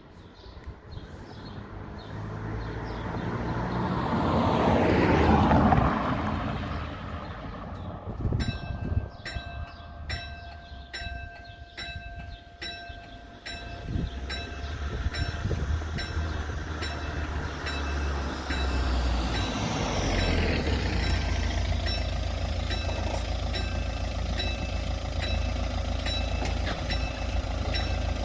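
A vehicle passes, then about eight seconds in the level crossing's old electric bells inside the barrier units start ringing. They ring in an even rhythm of about two strikes a second, with a steady alarm tone beside them for several seconds. Later a steady low rumble joins the bells.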